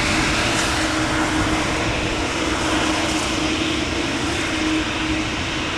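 Boeing 787-9 jet engines running steadily, a dense rushing noise with a steady hum underneath, slowly easing off.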